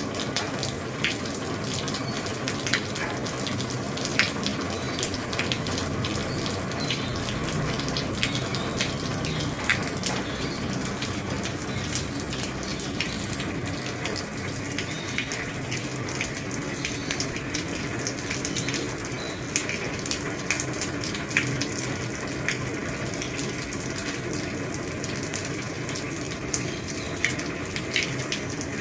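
Heavy rain falling on an old roof: a steady wash of rain with frequent sharp drop impacts scattered through it.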